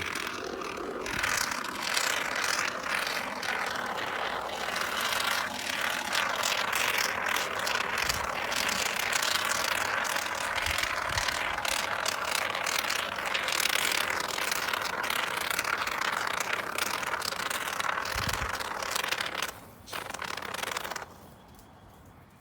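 Aerosol can of expanding foam insulation spraying, a continuous hiss full of sputtering crackles. It stops about nineteen seconds in, then gives one short last burst.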